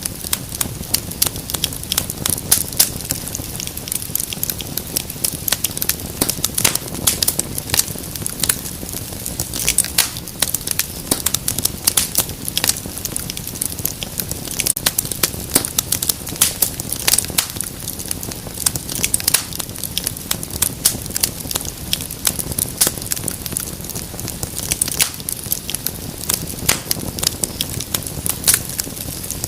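Wood fire crackling steadily, with many sharp irregular pops and snaps over a low, even rumble of flame.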